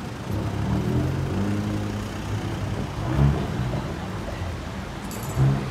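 Hyundai i30 N hatchback's engine running in slow traffic, revving up about half a second in, with two short loud bangs, about three seconds in and near the end.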